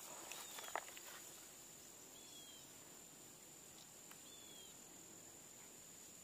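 Quiet riverside ambience: a faint steady high whine, and a bird's short falling chirp repeated about every two seconds. A few faint clicks come in the first second.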